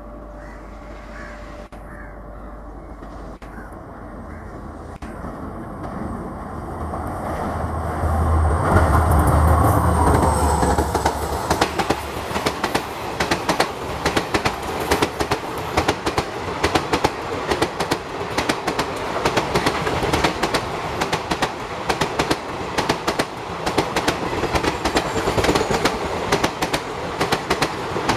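Diesel-hauled passenger train passing close by. The locomotive's engine hum builds to its loudest about eight to ten seconds in, then the coaches roll past with a rapid clickety-clack of wheels over rail joints.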